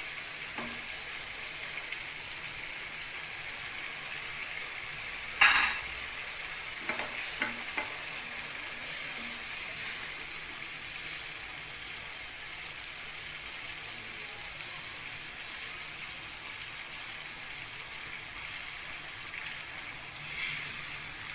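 Curry masala sizzling steadily as it fries in a non-stick frying pan and is stirred with a slotted spatula. About five seconds in the spatula gives one sharp knock against the pan, followed by a few lighter taps.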